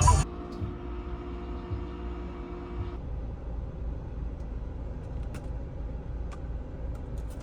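Steady low road rumble of a car heard from inside the moving vehicle, with a few faint clicks.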